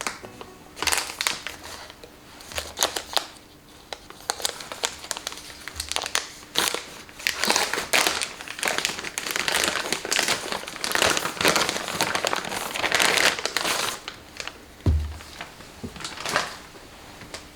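Crinkling, crackling handling noise in irregular bursts, busiest in the middle, with a low thump about three-quarters of the way through.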